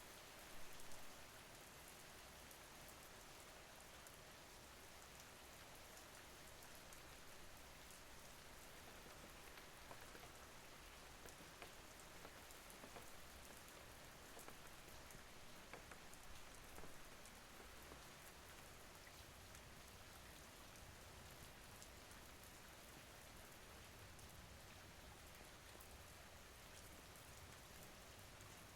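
Faint steady rain: an even hiss of rainfall with scattered small drop ticks.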